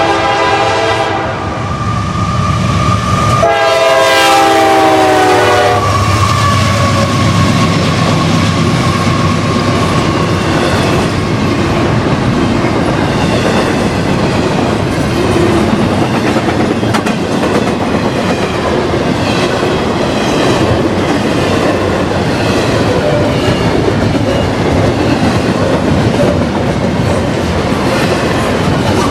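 CSX freight train sounding its air horn twice: a short blast at the start, then a longer one a few seconds in that drops in pitch as the locomotive passes. After that the railcars roll by with a steady rumble and a rhythmic clickety-clack of wheels over rail joints.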